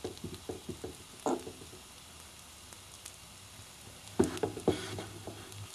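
Oat-based sausages and patties sizzling gently in oil in a nonstick frying pan over medium-high heat, with a few light taps at the start and a louder clatter of knocks about four seconds in.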